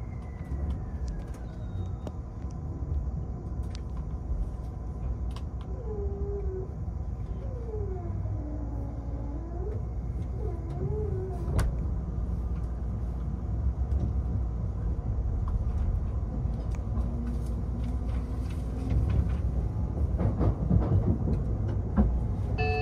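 Train running: a steady low rumble, with a few wavering tones that dip and rise partway through, a sharp click about halfway, and more knocking as it grows louder near the end.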